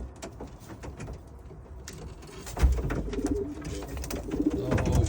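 Domestic pigeons cooing, getting louder from about halfway in with a low thump, and scattered sharp clicks throughout.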